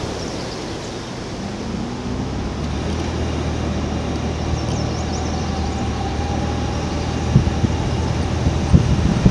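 An engine running steadily with a low hum that sets in about a second and a half in, over a rushing background noise. A few sharp knocks come near the end.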